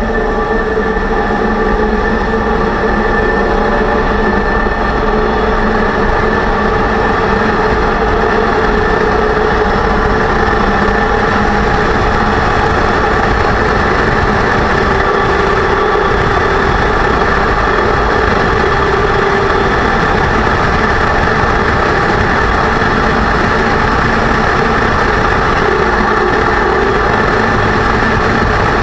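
A 2006 Range Rover Sport's freshly rebuilt differential under way: a loud, steady drone with a whine over the drivetrain noise, still there after new bearings and races. The owner suspects he set the pinion bearing preload too high.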